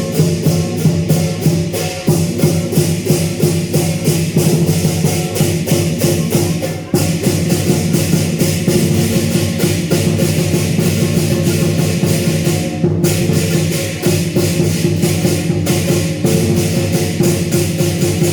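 Chinese lion dance percussion band playing: a big drum and clashing cymbals beating a fast, even rhythm over a steady ringing tone, pausing briefly about seven seconds in.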